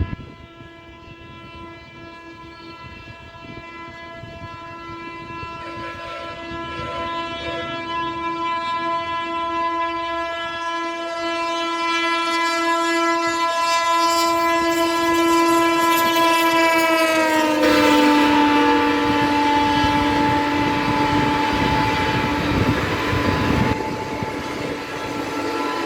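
Indian Railways train approaching at speed with its locomotive horn held in one long blast that grows steadily louder. About 17 seconds in, the horn drops in pitch as the locomotive passes, and it carries on over the loud rumble and wheel clatter of the passing train before fading.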